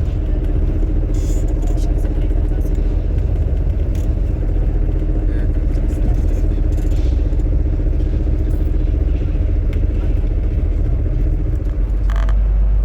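Steady low engine rumble with a droning hum, and a few light clicks and knocks over it.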